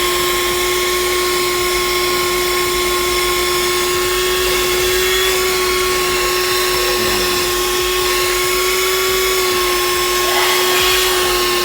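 Cheap handheld car vacuum cleaner running steadily while vacuuming dirt from a car's interior: a constant motor whine over the rush of air.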